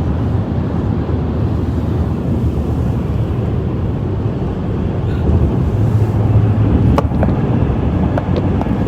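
Steady road and tyre noise inside a car cruising at freeway speed, swelling a little from about five seconds in and easing off by seven. There is a single sharp click at about seven seconds.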